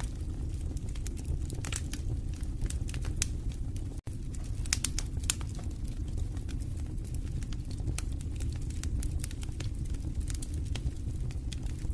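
Wood fire burning in a fireplace: a steady low rumble of flames with irregular sharp crackles and pops from the burning logs. The sound cuts out for an instant about four seconds in.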